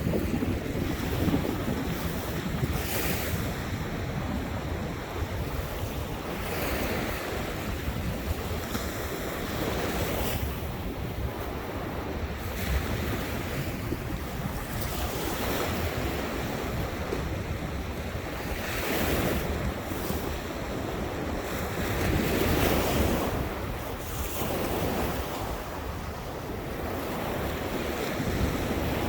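Ocean surf breaking and washing ashore in repeated swells a few seconds apart, with wind buffeting the microphone.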